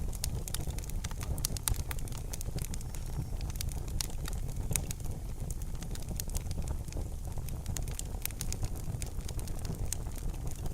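Wood fire in a fireplace crackling, with many small irregular pops and snaps over a steady low rumble of the flames.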